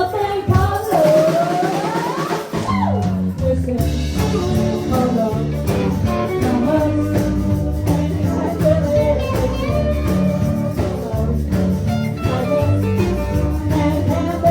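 A live band playing, with singing, guitar and drum kit. After a brief break with no bass, where a single line slides upward, the full band comes back in about three seconds in with a steady groove.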